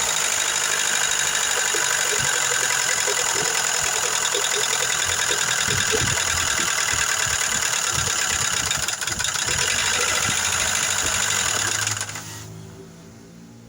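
Car engine running with a fast ticking from its hydraulic lifters, the tick of lifters not filled with oil. The engine is shut off near the end and the sound drops away.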